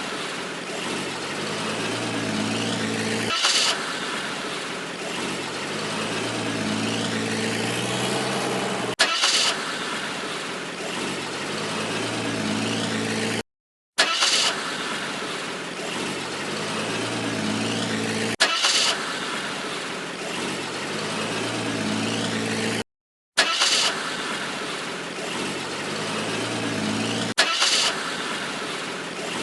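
A motor-vehicle engine sound effect running steadily in a loop. Every four to six seconds it restarts with a short hiss, and it cuts out completely for a moment twice.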